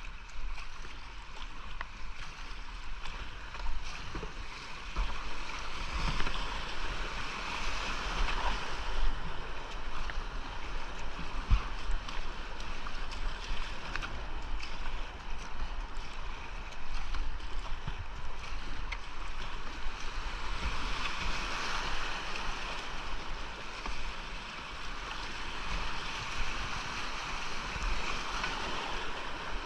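Whitewater rapids of a mountain creek rushing steadily around a kayak, with occasional short low thumps.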